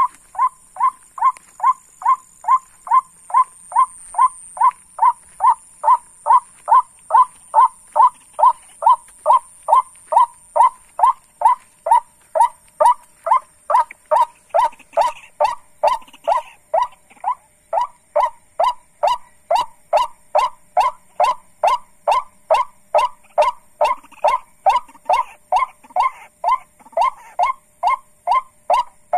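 Ruak-ruak (white-breasted waterhen) lure call: short, identical notes repeated very regularly, about two a second, without a break.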